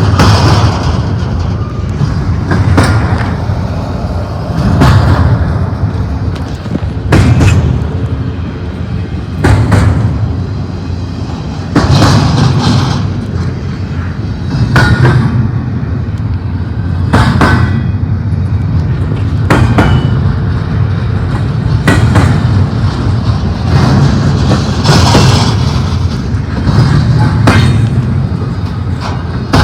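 Double-stack container freight train rolling past close by, its wheels clanking and thumping in a loud surge that repeats about every two and a half seconds as each car goes by.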